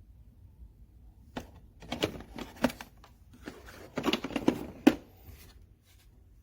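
A run of sharp clacks and knocks in two clusters, with one louder knock near the end, like hard plastic and metal parts being handled.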